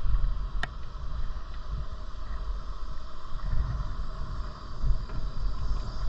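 Wind buffeting the microphone during a bicycle ride, over a steady rushing noise, with one sharp click just over half a second in.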